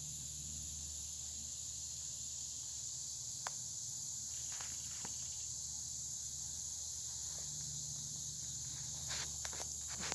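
Steady, high-pitched chorus of insects, with a few faint clicks and taps around the middle and a small cluster near the end.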